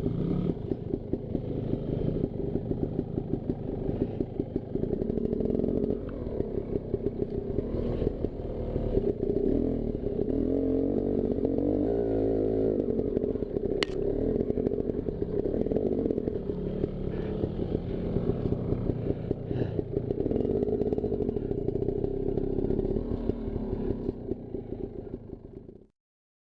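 Two-stroke dirt bike engine running while ridden, its pitch rising and falling with the throttle, with a busy rattle over it. The sound cuts off abruptly about a second before the end.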